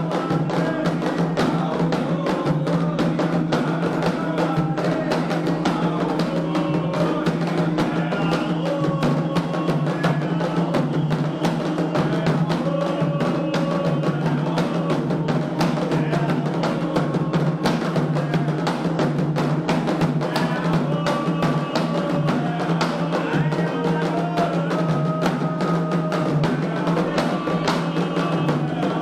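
Candomblé ritual music: atabaque hand drums beating a fast, steady rhythm under chanted singing.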